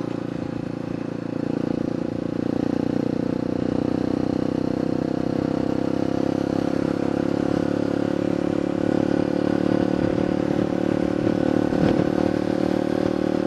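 Honda XR200's air-cooled single-cylinder engine with an open exhaust pipe, running steadily at an even pitch, getting a little louder about a second and a half in.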